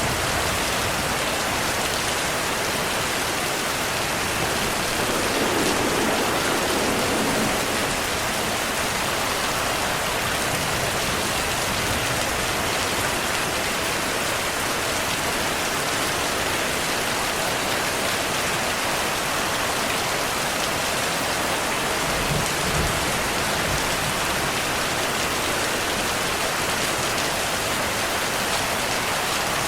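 Heavy rain falling steadily, a dense even hiss of drops on surfaces, with brief low swells about a fifth of the way in and again past the middle.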